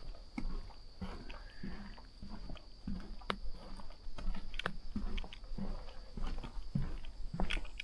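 Footsteps of a walker on a trail, a step about every half second to second with small crackles underfoot. Behind them a steady high insect drone.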